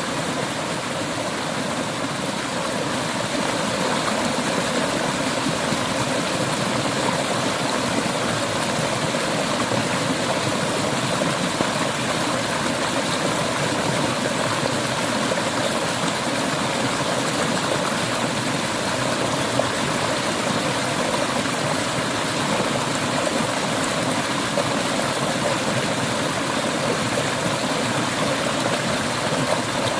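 Clear river water flowing over rocks, a steady rushing babble.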